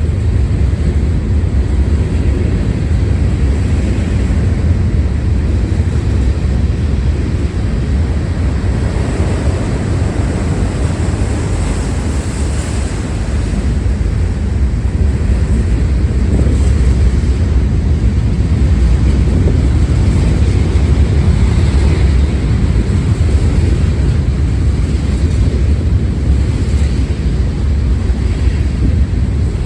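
Freight train rolling past, a loud, steady low rumble that grows a little louder about halfway through.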